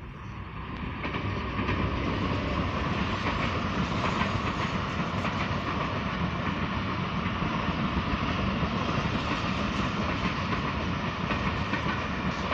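Diesel-hauled passenger train passing close by. The sound swells over the first couple of seconds as the locomotive draws near, then the coaches roll past in a steady rumble with wheels clicking over the rail joints.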